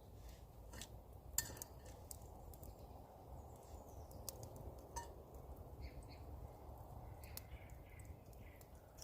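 Faint outdoor ambience with scattered light clicks and clinks, the sharpest about a second and a half in, and a few faint bird chirps in the second half.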